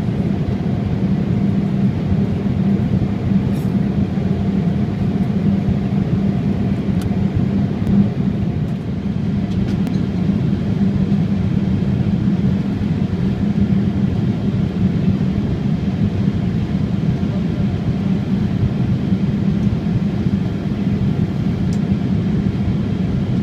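Steady cabin drone of a Boeing 787-8 airliner in flight: a constant rush of air noise with a low hum running through it.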